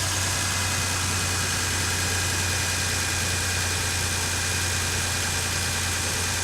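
Toyota 5VZ-FE 3.4-litre V6 engine idling steadily.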